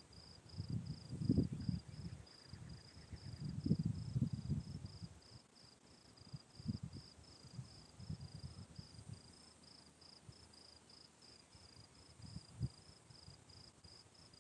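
A cricket chirping steadily, a high pulse two or three times a second, over bouts of low rumble that are loudest in the first five seconds, with a dull knock near the end.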